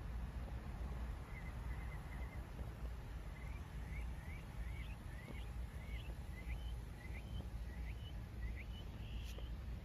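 A bird calling: a run of short rising chirps, about two a second, then a longer higher note near the end, over a low steady rumble.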